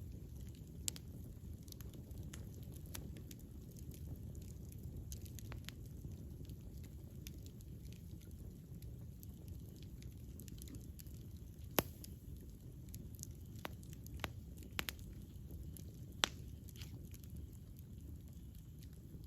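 Wood campfire burning: irregular sharp crackles and pops over a low steady rumble of the flames, with the loudest pops about twelve and sixteen seconds in.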